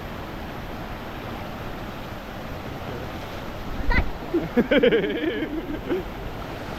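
Steady rush of a storm-swollen waterfall in flood. About four seconds in comes a sharp knock, then a person's voice calling out for about two seconds.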